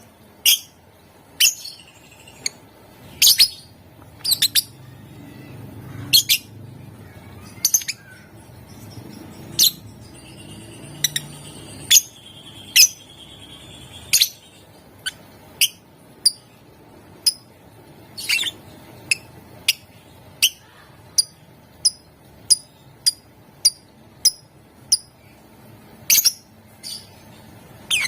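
Lovebird giving short, sharp, shrill chirps in an irregular series, with a thin held tone in the middle. The chirps come quicker and more evenly, about two a second, in the later part. This is the staccato 'ngetik' chirping used as a lure to set other lovebirds singing.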